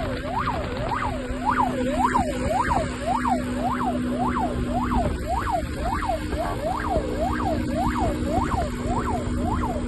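Police car siren on its fast yelp, sweeping up and down in pitch about twice a second without a break, over a steady engine drone.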